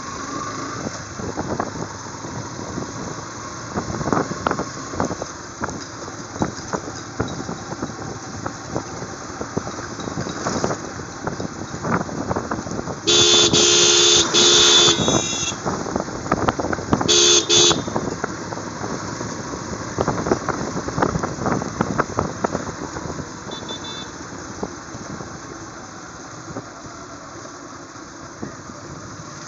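Motorcycle ride in traffic: steady engine and road noise, with a vehicle horn honking loudly for about two seconds halfway through, a shorter honk a few seconds later, and a faint brief beep near the end.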